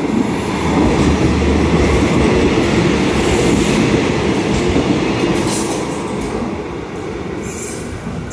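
Diesel locomotive-hauled passenger train rolling past a station platform. The locomotive's engine passes low and loud about a second in, then the coaches' wheels run by with brief high squeals. The sound eases off over the last couple of seconds.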